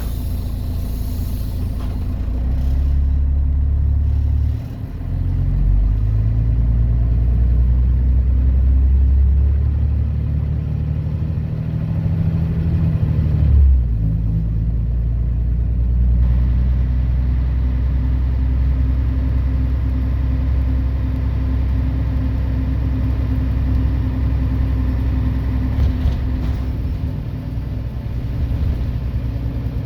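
Scania DSC 11.71 six-cylinder diesel of a Scania CN113CLL city bus pulling away and accelerating. The engine note dips briefly about 5 seconds in and falls sharply about 14 seconds in, like upshifts of the Voith automatic gearbox. It then runs at a steady pitch.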